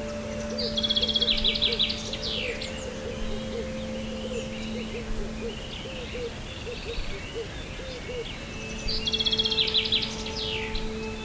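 Forest birdsong: a bird sings a fast, high trilled phrase twice, about eight seconds apart, with fainter chirps in between, over steady low humming tones.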